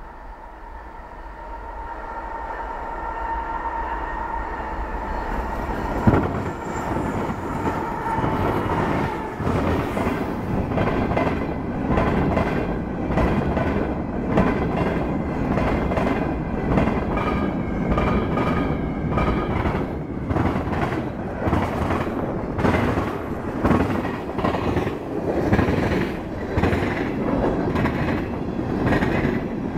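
A CN GE diesel-electric locomotive approaches with a steady tone, growing louder. About six seconds in there is a sharp knock, and then a long freight of covered hoppers and tank cars rolls past close by, its wheels clattering over rail joints and switches.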